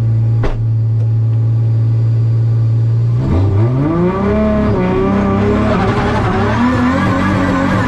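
2JZ-engined Toyota Supra drift car's engine holding a steady note, then from about three seconds in the revs climb and swing up and down as the car is driven hard on the throttle.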